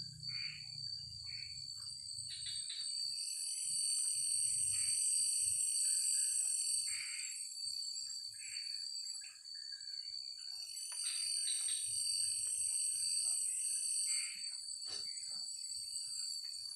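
Forest chorus of insects and frogs: a steady high insect trill under a higher buzzing that swells and fades every few seconds, with short frog calls and chirps scattered through.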